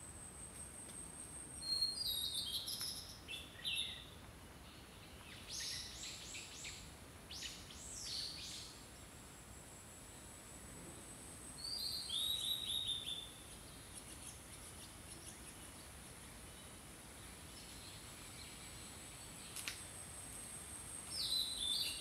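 Songbirds singing in woodland: four groups of short, high notes, some falling in pitch, over a thin, steady high tone.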